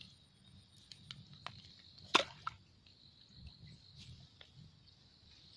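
Quiet outdoor ambience: a steady faint high-pitched hum under a low rumble, with scattered sharp clicks, the loudest one about two seconds in.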